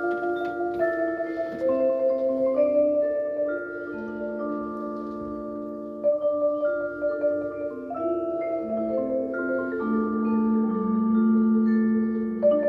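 Mallet percussion ensemble, marimbas to the fore, playing rolled, sustained chords that change every second or two.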